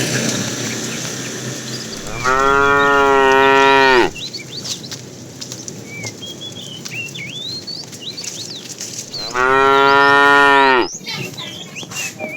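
A cow mooing twice, each a long, steady, full call lasting one and a half to two seconds, about seven seconds apart.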